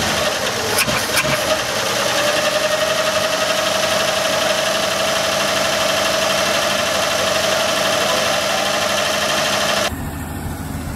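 Old Chevy Nova engine running steadily after years of sitting, fed from a temporary boat fuel tank with newly fitted points and a correctly wired coil. About ten seconds in the sound drops suddenly to a quieter idle.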